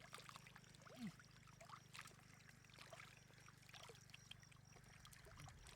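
Near silence: faint trickling water with scattered small ticks over a steady low hum.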